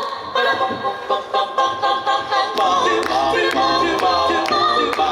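A cappella choir singing with held notes; about halfway through, a quick regular beat of sharp clicks and low bass notes comes in.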